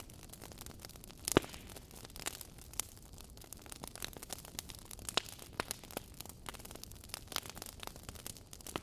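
Wood fire crackling in a fireplace: irregular sharp pops and snaps over a soft steady hiss, with one louder pop about a second and a half in.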